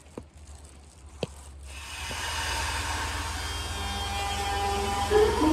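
Electric train getting under way: running noise builds after a couple of light clicks, and near the end the traction motors' whine starts rising in pitch.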